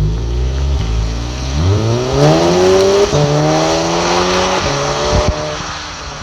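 Audi S3 8V's turbocharged 2.0-litre four-cylinder heard through a stainless exhaust with the intermediate silencer deleted, accelerating: a low steady note, then about one and a half seconds in the pitch climbs steeply and keeps rising more slowly before levelling off.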